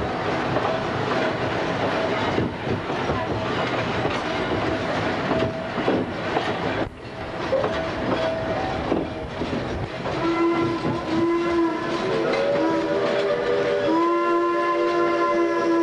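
Clatter and rumble of the passenger car's wheels running on the rails. From about ten seconds in, the train's whistle sounds a chord of several tones in a few short blasts, then one long blast near the end.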